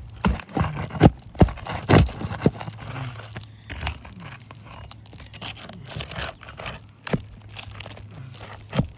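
A roof snake prying and scraping under a 3-tab asphalt shingle, with crunching and tearing as the nails rip through the shingle. A quick run of sharp scrapes and knocks in the first three seconds, then scattered ones.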